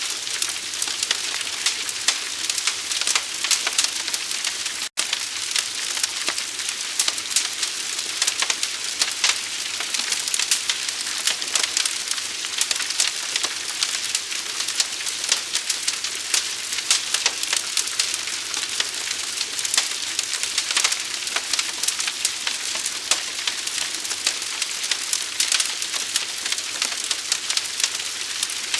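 Fire burning with dense, continuous crackling and a hiss, with a momentary break in the sound about five seconds in.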